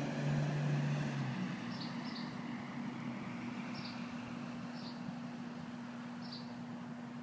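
Short, high bird chirps, about five of them at irregular intervals, over a steady low machine hum; one lower tone of the hum stops about a second in.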